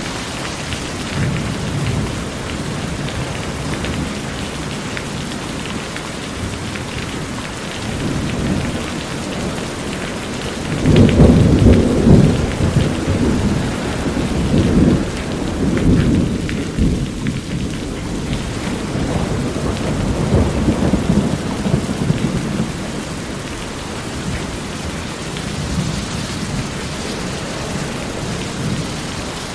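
Steady rain falling on a corrugated roof and running off its edge, with rolling thunder rumbling low. The thunder swells loudest a little over a third of the way in and rumbles again several times after.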